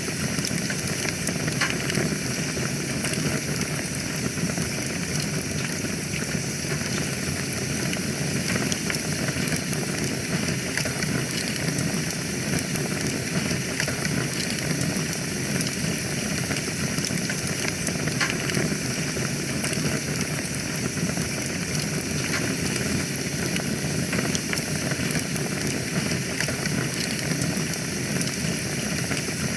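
Wood fire burning in a fireplace: a steady hiss with small crackles scattered throughout.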